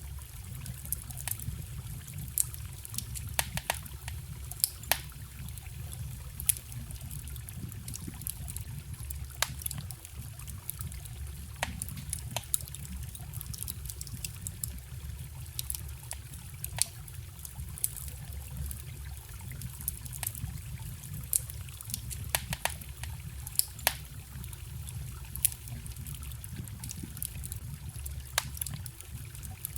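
Wood fire crackling with sharp, irregular pops, over the steady trickle of a small stream.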